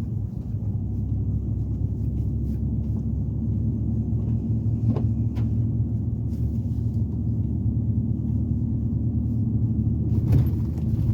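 Truck driving on a road: steady low engine and tyre rumble, with a few faint rattles and a louder bump about ten seconds in.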